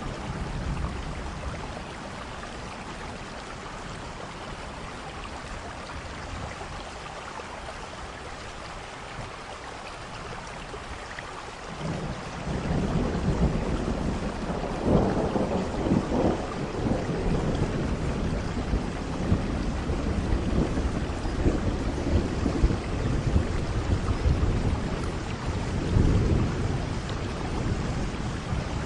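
Steady rain falling, with a long rolling thunder rumble that swells in about twelve seconds in and keeps rumbling, loudest around the middle and again near the end.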